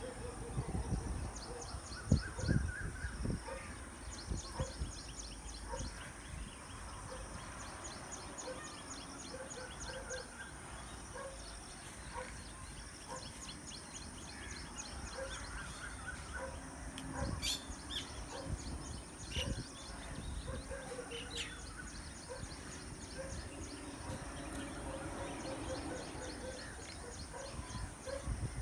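Several birds calling: a low note repeated about once or twice a second, and bouts of rapid high-pitched trilling, over a steady high-pitched hiss. Low bumps come through in the first few seconds.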